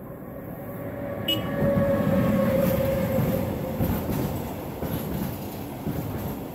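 An electric-hauled freight train of tank container wagons passes close by. The rumble of wheels on rail swells to its loudest about two seconds in as the locomotive goes past, with a brief whine. After that it holds as a steady wagon-wheel rumble broken by sharp clacks every second or so.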